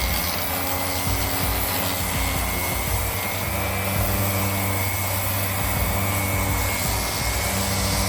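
Electric power sander running steadily on 220-grit paper, abrading the clear coating off an aluminium three-piece wheel.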